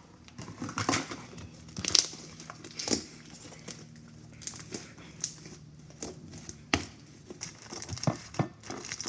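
Slime being squished and stretched by hand, making irregular crackles and sharp pops, the loudest about two and three seconds in.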